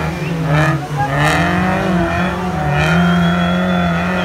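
Off-road car's engine revving hard while stuck in deep mud, its pitch wavering up and down as the driver works the throttle to get free.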